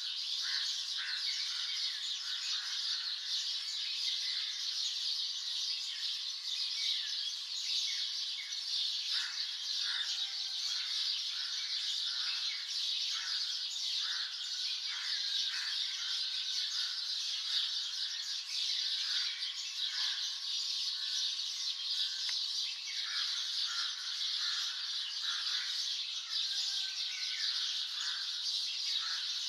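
Many birds chirping and calling at once in a dense morning chorus. A steady high wash of overlapping chirps runs throughout, and many short, separate calls sit lower in pitch beneath it.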